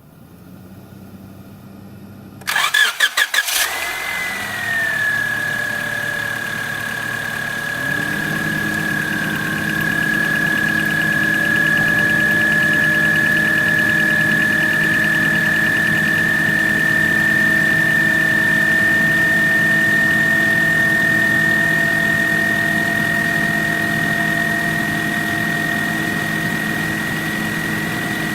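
A vehicle engine cranked by the starter in a few quick strokes, catching about three and a half seconds in and then idling steadily, with a high steady whine over the running.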